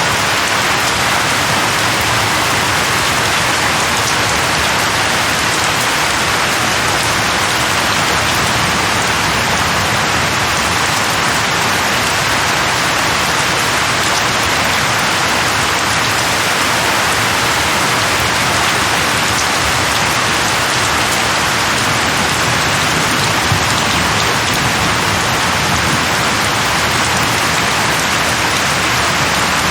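Steady, even rain falling, a dense hiss of drops with no let-up.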